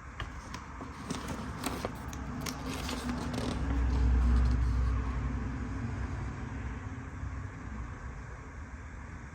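A motor vehicle passing by: a low rumble that swells to a peak about four seconds in and fades away. Light clicks and rustles of paper handling come in the first few seconds.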